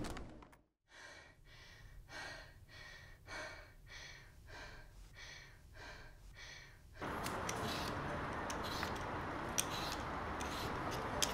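Quick, even breaths, about two a second, go on for several seconds after a moment of silence. The sound then cuts to a steady background hiss with a few light clicks.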